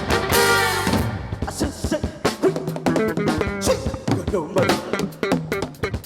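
Live Afro-fusion band playing an instrumental passage on drum kit and guitar, with no singing. Held notes give way about a second in to busy drum hits and quick plucked guitar notes.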